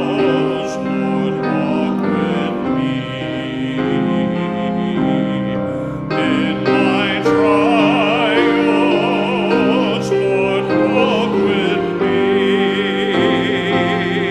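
A church congregation singing a hymn with piano or organ accompaniment, the voices wavering with vibrato over steady held chords.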